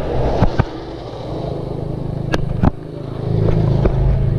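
Suzuki Raider 150 motorcycle engine running during a ride, getting louder about three seconds in, with a few sharp clicks over it.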